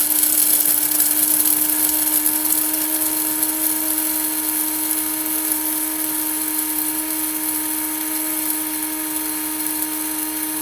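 Hamilton Beach electric coffee grinder running steadily, grinding a half-load of coffee beans on the medium setting: a steady motor whine over a high grinding hiss, easing slightly in loudness as the beans are ground down.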